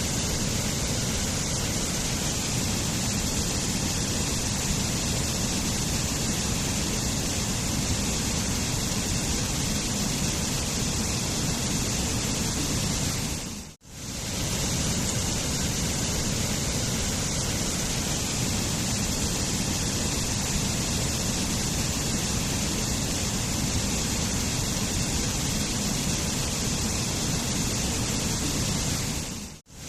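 Steady rush of a waterfall, an even roar of falling water. About halfway through it fades out to near silence for a moment and straight back in.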